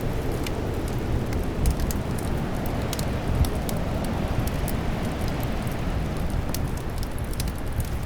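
Fireplace fire crackling, with scattered sharp pops and snaps, over a steady low rumble of winter wind.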